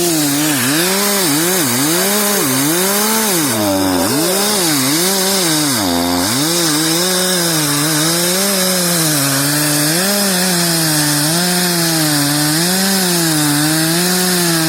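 Two-stroke chainsaw cutting wood under load, its engine pitch rising and falling about once a second as the saw is worked through the cut, with the deepest drops about four and six seconds in.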